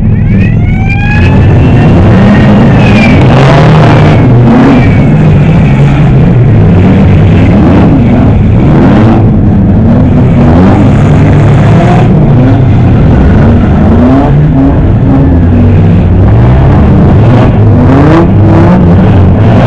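Several banger-racing cars' engines revving hard at once, their pitches sweeping up and down over one another in a loud, continuous din. There is a brief high squeal about a second in.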